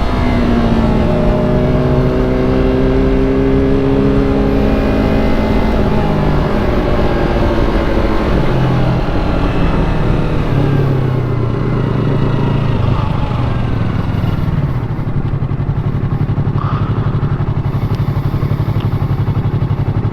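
Yamaha sport bike engine slowing down, its pitch falling in steps as the revs drop, then idling with a steady, even pulse from about fifteen seconds in.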